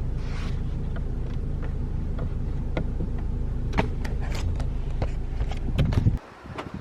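Car engine idling, with a few scattered clicks and knocks over it; about six seconds in the engine is switched off and the rumble stops suddenly.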